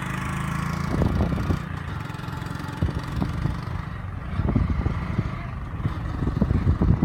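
Motorcycle running on the road during a ride, a steady low engine hum mixed with irregular low rumbles from wind on the microphone.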